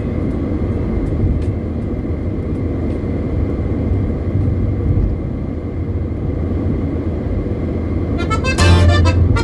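Car driving on a highway: steady road and engine rumble. Music starts near the end.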